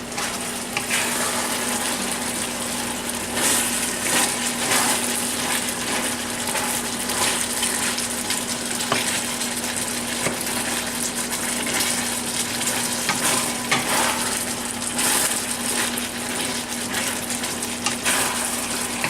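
Chicken, peppers, green beans and pineapple in sauce sizzling in a hot wok, steadily, with the spatula stirring and scraping against the wok now and then.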